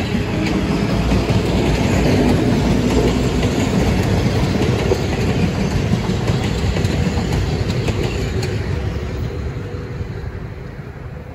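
Metro-North M7 electric multiple-unit commuter train passing on the far track, its wheels rumbling and clicking over the rails. The sound fades away near the end as the last car goes by.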